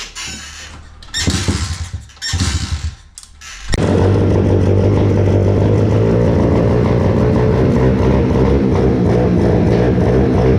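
Stomp 120R pit bike's 120cc four-stroke single, its carburettor freshly cleaned, being started. It fires in three short bursts, then catches about four seconds in and runs steadily.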